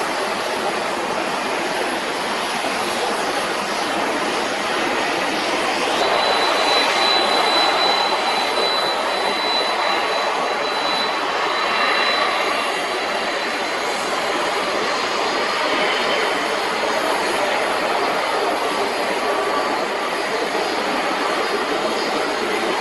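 Jet engines of an ANA Cargo Boeing 767-300 freighter running, a loud steady rush of engine noise. A thin high whine comes in about six seconds in and fades away a few seconds later.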